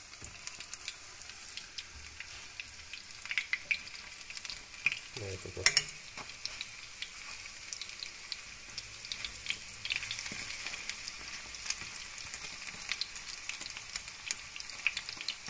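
Battered courgette flowers frying in hot oil in a nonstick pan: a steady sizzle with constant small crackles. Now and then a sharper click of a fork against the pan as the flowers are turned, the loudest about five and a half seconds in.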